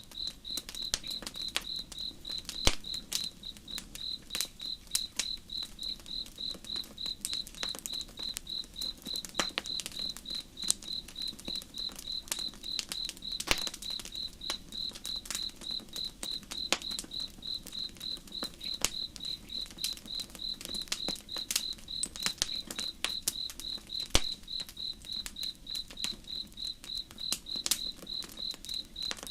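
A cricket chirping steadily and evenly, about three chirps a second, over a crackling campfire with frequent sharp pops, several of them loud.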